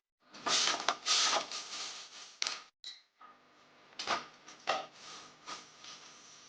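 Household handling noises: a loud scraping rush about half a second in, then a few sharp knocks spread through the rest.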